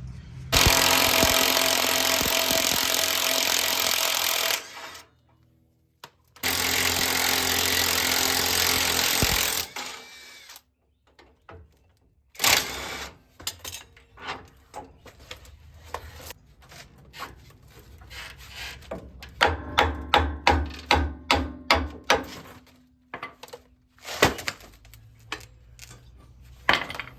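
Power tool running hard in two bursts of about four and three seconds, loosening the front suspension fasteners. After that come scattered metal clicks and knocks from tools and parts, with a quick run of knocks in the middle.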